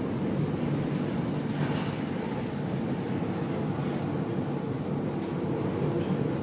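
Steady low mechanical rumble of a ship's machinery heard on board, with a brief faint hiss about two seconds in.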